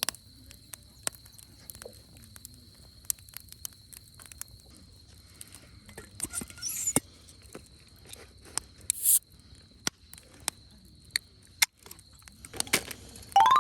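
Wood fire crackling in a fire pit, with sharp, irregular pops and snaps. A short rising squeal comes near the end.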